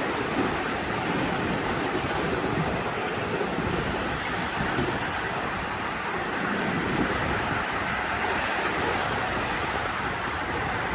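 Steady rumbling noise of a moving miniature railway train, mixed with wind on the microphone.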